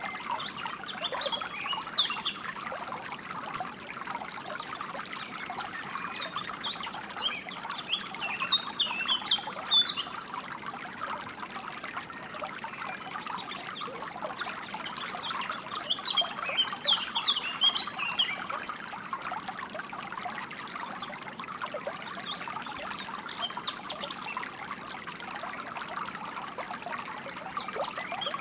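Steady trickle of flowing water, with small birds chirping in clusters of quick high notes that come and go every few seconds.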